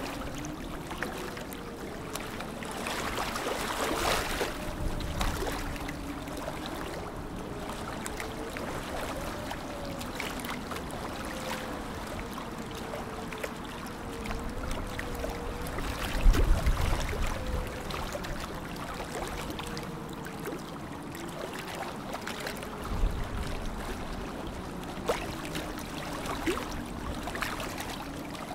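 Lake water lapping and trickling, with many small splashes and a faint wavering tone beneath. A low thud comes about 16 seconds in and a smaller one near 23 seconds.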